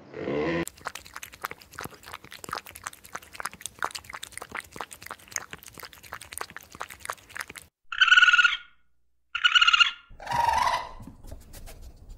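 A white tiger lapping water with its tongue: a rapid, uneven run of small wet clicks lasting about seven seconds. A hippopotamus call breaks off at the very start. Near the end come two loud, short animal calls with a wavering pitch, then a lower one.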